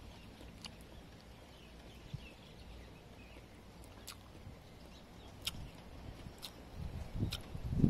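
Faint outdoor background with a few sharp clicks. Near the end come close, irregular crunching bites and chewing as fresh green peppercorns are eaten off the stalk.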